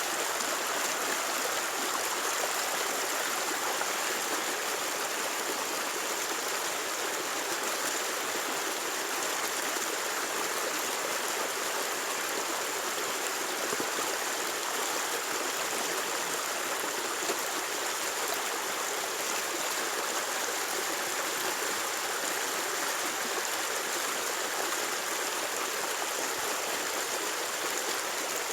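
Steady, even rushing like running water, unbroken throughout.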